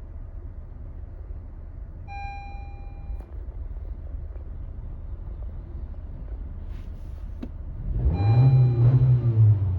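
A steady low rumble with a short electronic chime about two seconds in. About eight seconds in, a 2018 Honda CR-V's engine starts: a loud low flare that then slides down in pitch as it settles.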